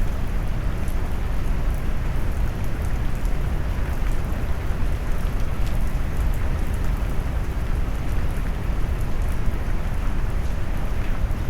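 Steady rain noise mixed down into deep brown noise: a continuous, even low rushing with faint scattered drop ticks above it.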